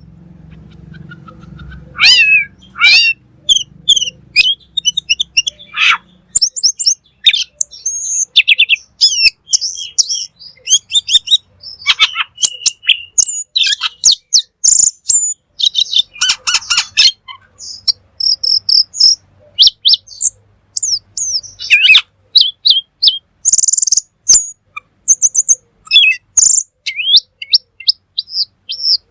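Cucak keling songbird in full song ('gacor'): a rapid, unbroken string of loud varied chirps, whistled phrases and quick trills, with hardly a pause between phrases.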